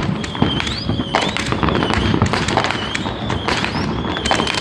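Consumer fireworks crackling, with a dense run of rapid pops and snaps. Over them a high whistle repeats about once a second, rising in pitch at the end of each.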